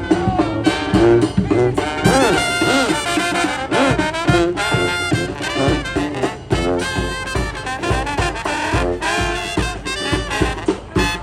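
Upbeat swing jazz with brass: trumpet and trombone over a steady beat, with sliding brass notes about two seconds in.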